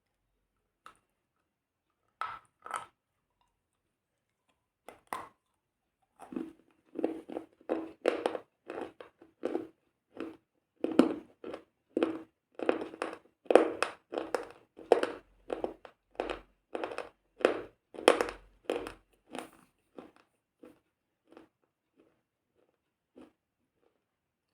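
Repeated crisp crunching: a few crunches, then a steady run of about two a second that tapers off near the end.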